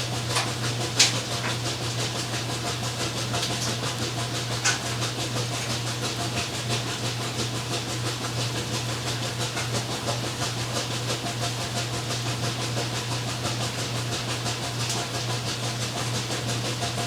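Laundry machine (washer or dryer) running with a steady hum and rumbling hiss, with a couple of light clicks about a second in and again near five seconds.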